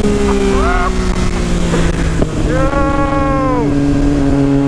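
Yamaha MT-09 motorcycle engine running steadily, its pitch slowly sinking, with a person's drawn-out call over it about two and a half seconds in.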